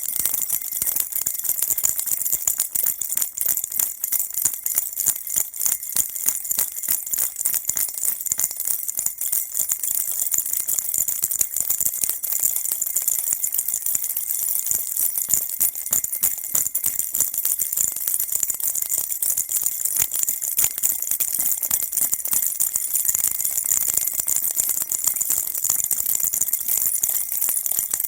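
Baby rattle shaken continuously, a fast, dense jingling rattle that rings high and bright and never pauses, played on a loop as soothing white noise for a baby.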